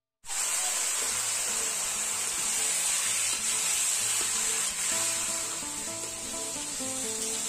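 Diced potatoes sizzling as they fry in oil in a large kadai, stirred with a spatula. The sizzle starts abruptly just after the beginning, with guitar music faintly underneath.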